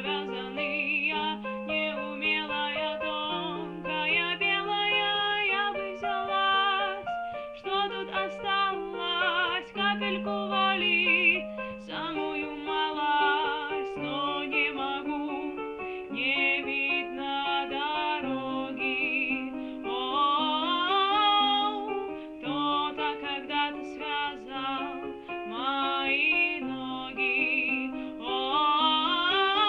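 A woman singing a Russian-language Christian worship song, with vibrato on held notes, over instrumental accompaniment with steady bass notes.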